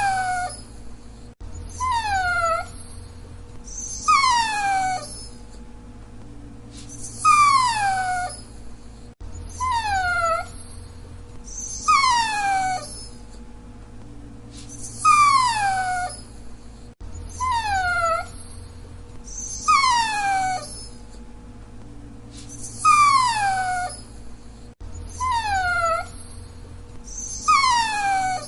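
Dachshund whining: short, high whines that fall in pitch, one every two to three seconds.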